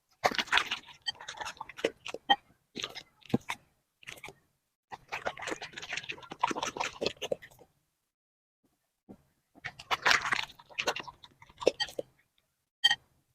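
A puppy chewing and crunching food in three spells of crackly bites, with short silent pauses between them and a single click near the end.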